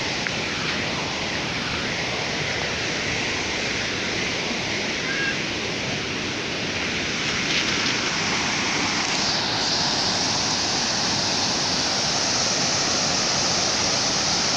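Waterfall pouring steadily as a continuous rushing hiss, growing a little louder and brighter about two-thirds of the way in.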